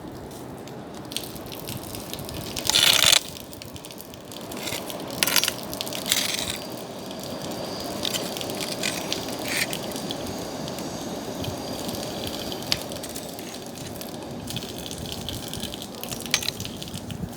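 Bonfire burning: a steady rushing of flames with scattered crackles and pops, and a loud hissing burst about three seconds in.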